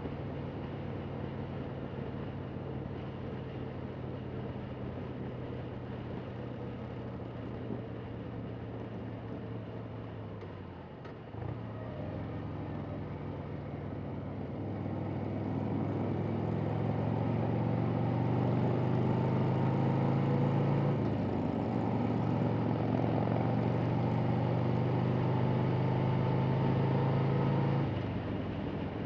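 Harley-Davidson Sportster V-twin engine running at road speed, heard from the rider's seat. The engine note breaks briefly about eleven seconds in, grows louder as the throttle opens from about fifteen seconds, breaks again around twenty-one seconds, and eases off near the end.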